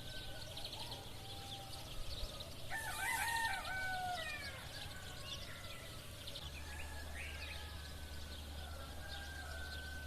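A rooster crows once, about three seconds in, the loudest sound, over steady chirping of small birds. A low steady hum comes in about six seconds in.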